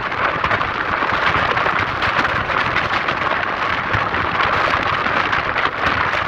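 Steady loud rushing and rattling of a moving train.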